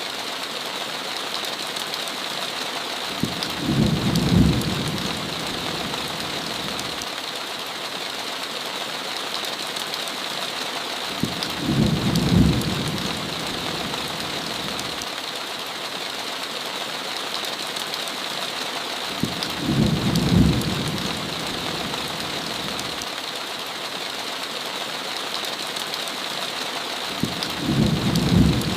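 Steady heavy rain, an even hiss, with a low rumble of thunder that swells and fades about every eight seconds, four times in all.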